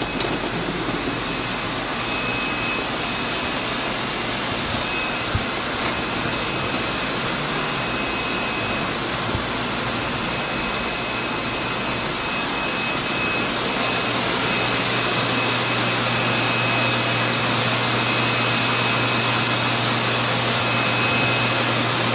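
Steady mechanical drone with a constant high whine running through it; a low hum joins about two-thirds of the way in and the noise grows slightly louder.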